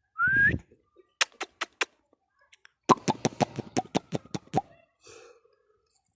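Indian ringneck parrot giving a short rising whistle-like note, then a few sharp clicks and, about three seconds in, a rapid run of clicking chatter lasting under two seconds.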